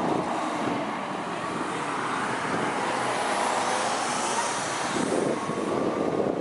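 Sea surf washing steadily, with the drone of a passing engine on top, its pitch slowly bending.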